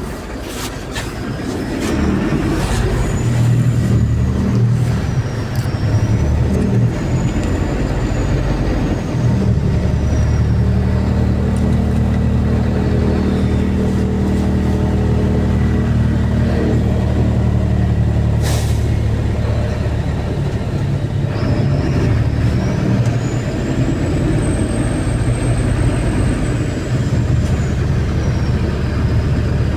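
MAZ-203 city bus heard from inside while under way: the engine running steadily, with a high whine that rises and falls twice as the bus speeds up and slows. A short, sharp air hiss comes about eighteen seconds in.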